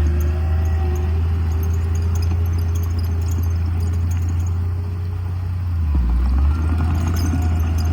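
Diesel engine of heavy earthmoving machinery running steadily with a deep rumble, easing off slightly about five seconds in and picking up again a second or so later.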